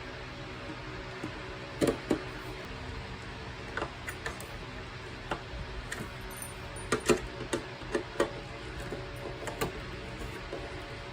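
Small parts being handled during reassembly: irregular light clicks and taps, about a dozen, loudest around two seconds in and again near the middle, over a steady low hum.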